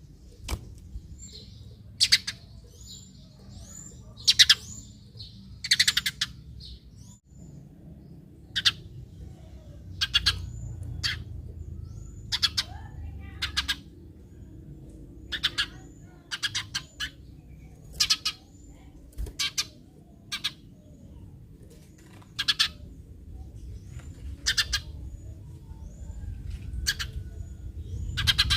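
Eurasian tree sparrows chirping: short, sharp chirps repeated at uneven gaps of about half a second to two seconds, with fainter chirps between them. This is the sparrow call played as a lure to set other sparrows calling.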